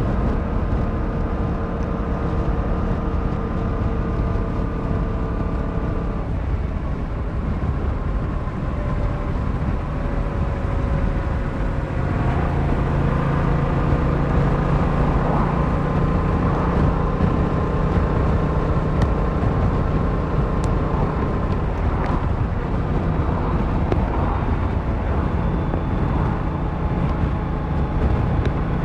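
Yamaha MT-07's 689cc parallel-twin engine running at a steady cruise on the open road, under a rush of wind and road noise. The engine note eases off about six seconds in and settles into a stronger, lower steady note from about twelve seconds in.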